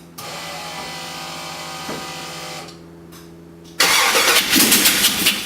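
An engine being cranked by its electric starter: a steady whirr for a couple of seconds, a short lull, then from about four seconds in a much louder, rapidly pulsing run of cranking. The engine has fuel but the owner thinks it probably has an ignition (spark) problem.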